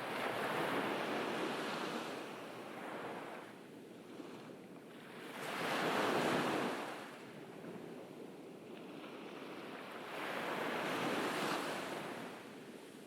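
Ocean waves breaking and washing onto a beach, the surf swelling and falling back three times, about five seconds apart.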